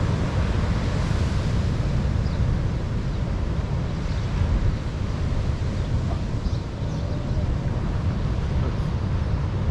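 Strong wind buffeting the microphone in a steady low rumble, over the continuous wash of breaking surf.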